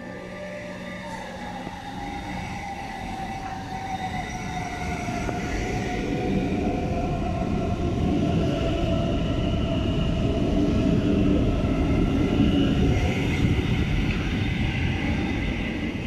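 Hamburg S-Bahn electric train running into an underground station. The rumble of the wheels on the rails swells as the train comes close and passes, with a motor whine that falls slowly in pitch as the train slows.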